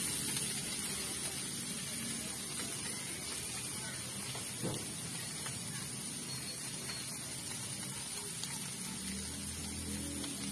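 Native chicken pieces frying in a pan on a gas stove, a steady sizzling hiss. Near the end, low tones come in underneath.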